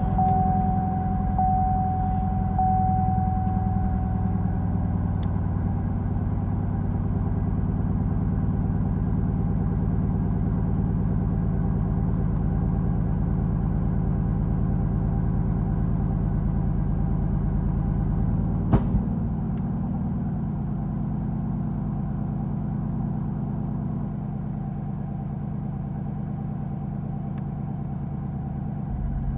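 Chevrolet Camaro 2SS 6.2-litre V8 idling steadily just after a cold start, with a faint high whine that fades in the first few seconds. About two-thirds of the way through there is one sharp pop, after which the idle runs a little quieter: the single big pop that comes with this car's cold-start cylinder 1 misfire.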